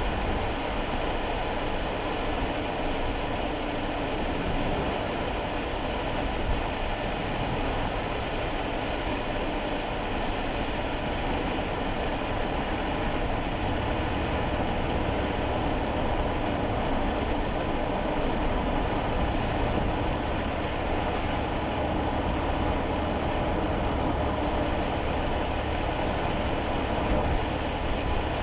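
Steady road noise heard from inside a small kei car's cabin while driving on rain-wet roads, a constant hiss of tyres and rain over a low engine and road rumble. The low rumble grows heavier about halfway through.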